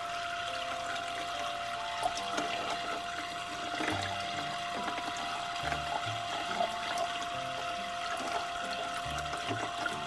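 Water running steadily from a toy kitchen sink's pump-fed faucet, splashing into a plastic cup and the basin below, with light background music over it.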